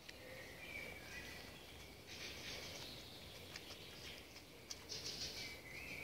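Songbirds calling faintly: thin whistled notes and short, high trills.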